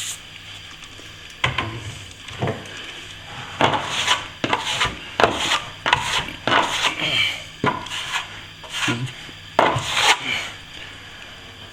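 Repeated, irregular scraping strokes of a hand tool worked over a plaster surface while finishing a crack repair.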